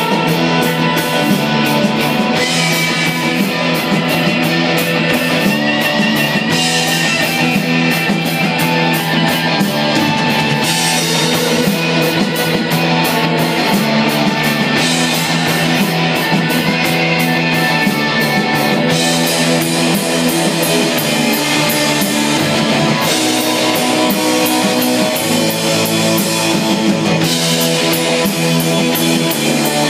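Live metal band playing loudly: electric guitars over a drum kit with busy cymbals.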